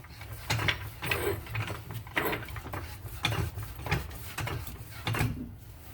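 Hydraulic jack being set under the rear suspension knuckle and pumped a little, its handle and mechanism clicking and knocking at irregular intervals.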